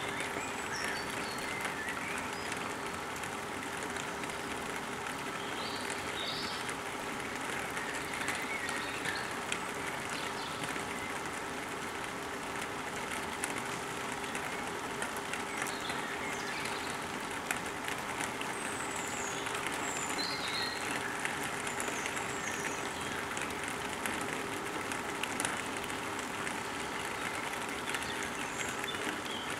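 Birds chirping in short, high calls scattered throughout, over a steady background rush with a constant low hum.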